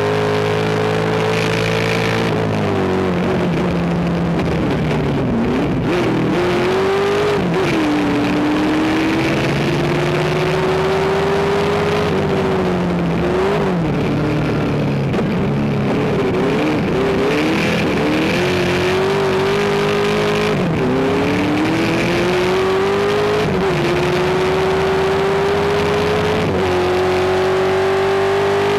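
Race car engine pulling hard up a hill-climb course, its pitch climbing steadily and then dropping sharply, again and again, as it shifts gears or lifts for corners.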